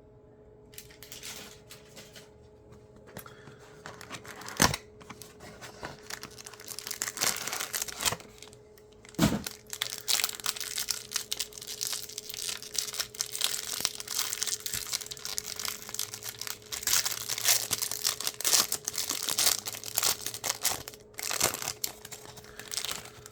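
Cardboard and plastic packaging of a trading-card hanger box being torn open and crinkled, a long stretch of crackling with a couple of sharp snaps about 5 and 9 seconds in.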